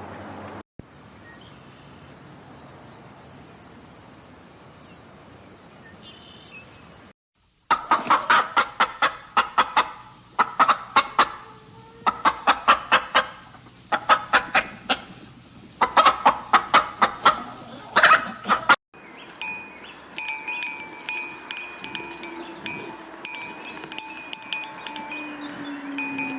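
Chickens clucking in rapid runs of short calls, in several bursts of about two seconds each. Before them is a quiet steady hum; after them comes a different sound with steady ringing tones and light ticks.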